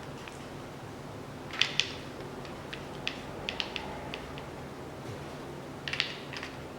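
Hand tools and metal engine parts clinking and clicking irregularly: two sharp clinks about one and a half seconds in, a run of lighter clicks a little later, and another cluster near the end, over a steady low hum.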